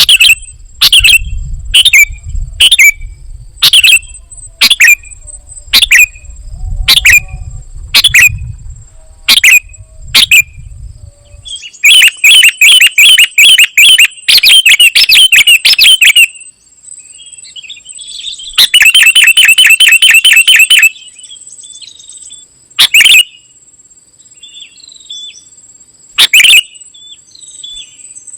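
Kutilang emas bulbul calling: sharp chirps repeated about once a second, then two spells of rapid chattering trills about halfway through, then scattered single notes. A thin steady high whine runs underneath.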